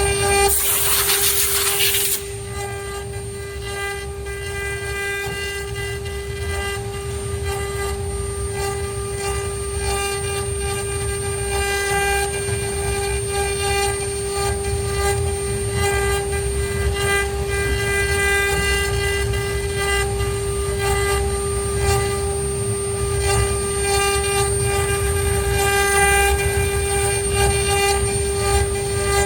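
ART1325 CNC router's spindle motor running with a steady high-pitched whine over a low rumble. A loud hiss comes in just after the start and stops about two seconds in.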